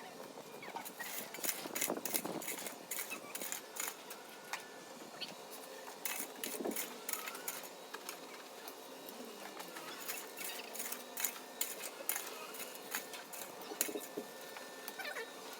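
A rapid, irregular run of light clicks and clatters, like small hard objects knocking together.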